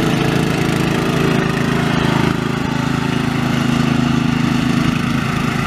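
Riding lawn mower engine running steadily under way, its level dipping slightly a little over two seconds in.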